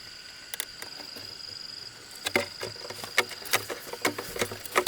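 A steady high-pitched insect drone, with irregular sharp knocks, a few a second, starting about two seconds in.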